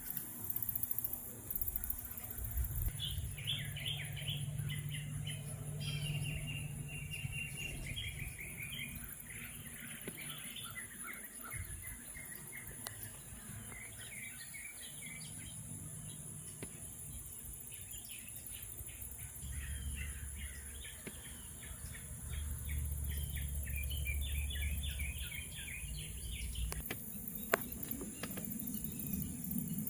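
Wild birds chirping in repeated quick series of short notes, over a steady high-pitched insect buzz. A few sharp clicks sound near the end.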